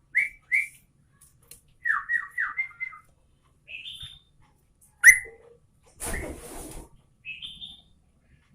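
Yellow-vented bulbul (trucukan) singing in short whistled phrases: two quick notes, a run of four falling notes, higher chirps, and one loud sharp note about five seconds in. A brief noisy rustle comes about six seconds in.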